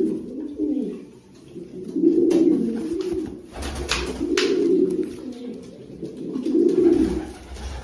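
Domestic fancy pigeons cooing: low rolling coos in phrases about every two seconds. A few short sharp noises come in the middle.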